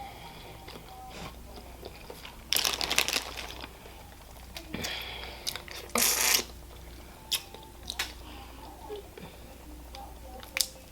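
A person eating from a seafood boil close to the microphone: quiet chewing broken by three louder crunching, crackling bursts, the longest about two and a half seconds in and the others near five and six seconds, with scattered small clicks between.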